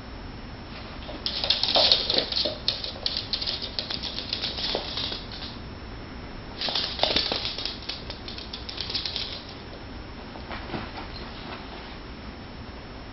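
Kitten and dog scuffling as they play-wrestle: two flurries of quick, scratchy patter from paws and claws, each lasting a few seconds, with a few faint scrapes after.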